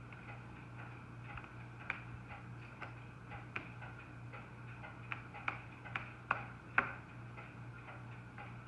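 Paintbrush tip dabbing dots of paint onto paper: light taps at an irregular pace, several close together in the middle, over a steady low hum.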